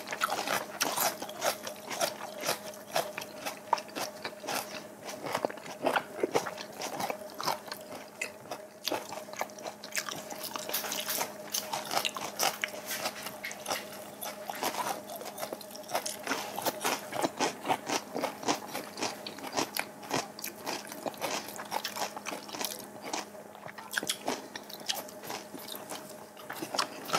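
Close-miked chewing and crunching of crisp raw vegetables, with many small mouth clicks throughout. A faint steady hum sits underneath.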